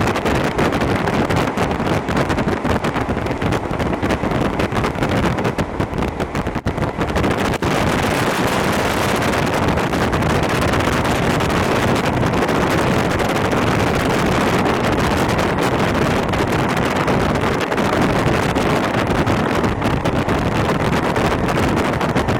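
Running noise inside a Hokuso Railway 7260 series train at speed: a steady, loud rush of wheels on rail and air, with scattered clicks from the track. About eight seconds in, the hiss grows brighter and fuller.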